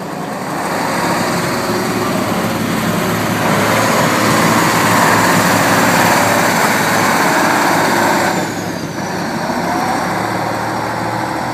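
Tatra 8x8 truck's diesel engine working hard off-road, growing louder over the first few seconds. About eight seconds in it eases off, and a high whine slides down in pitch.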